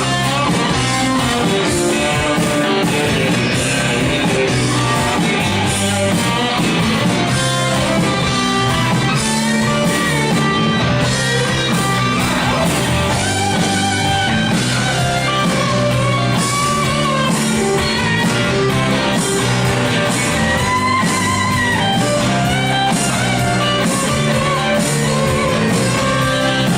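Live rock band playing, with guitar to the fore over a steady drum beat.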